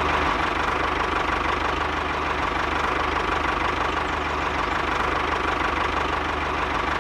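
A small engine running steadily at an even speed, with a fast, regular firing beat.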